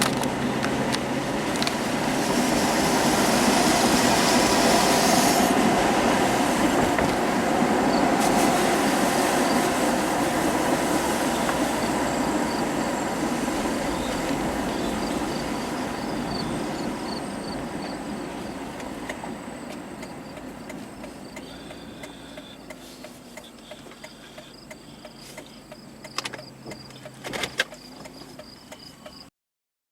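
Vehicle driving with steady road and engine noise that fades gradually as it slows to a stop. In the quieter final seconds, faint insects chirp and a few clicks sound.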